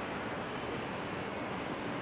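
Steady, even rushing noise of a Boeing 737-800's CFM56 jet engines heard at a distance.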